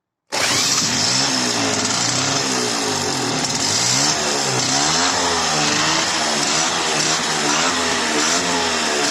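Electric drill cranking a quad's engine in place of a starter motor: a loud, steady motor whine that starts suddenly shortly in, its pitch dipping and rising over and over as the engine turns over.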